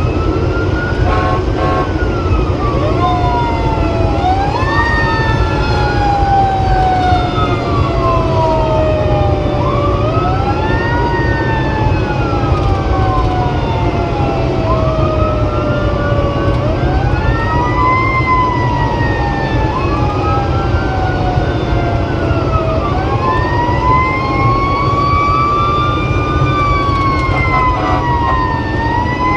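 Fire engine siren wailing on an emergency run, each wail rising quickly and then falling slowly, repeated and overlapping. A steady low rumble of truck engine and road noise runs underneath.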